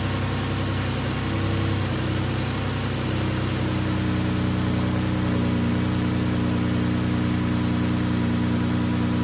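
Chrysler 3.6 L Pentastar V6 idling steadily and quietly after a tune-up with new spark plugs, its idle pitch stepping up slightly a few seconds in.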